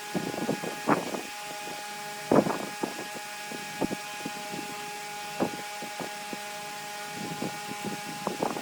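Large wood lathe running with a steady motor whine, with irregular short rasps as a turning tool cuts into the spinning wood. The strongest cut comes about two and a half seconds in.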